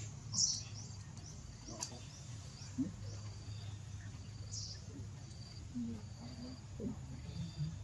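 A baby monkey crying with short, high-pitched squeals, twice, over a background of repeated high chirping from insects or birds.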